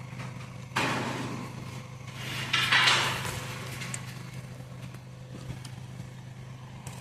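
Vacuum cleaner running steadily with a low hum, sucking a guide line through conduit. Two louder rushing noises come about a second in and around three seconds in.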